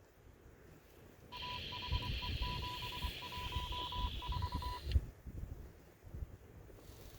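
A radio receiver's speaker giving a burst of static with a string of short and long beeps at one steady pitch, lasting about three and a half seconds and cutting off suddenly. Wind gusts buffet the microphone throughout.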